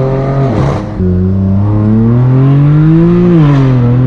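Straight-piped BMW M4 F82's twin-turbo inline-six, through an AWE Track Exhaust, running loud under way. The note breaks off briefly about half a second in, then climbs steadily in pitch as the car accelerates, drops quickly near the end and holds steady.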